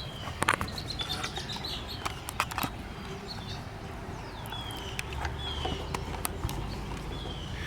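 Birds at a nesting colony: a series of short, high, falling chirps mixed with scattered sharp clicks, over a low steady rumble.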